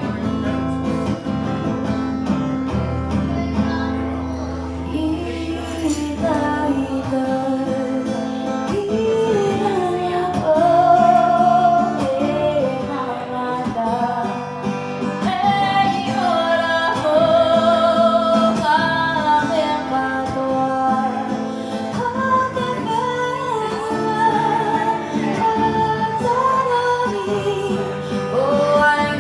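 Live acoustic music: a woman singing a melody over plucked guitar accompaniment, her voice coming in about eight seconds in.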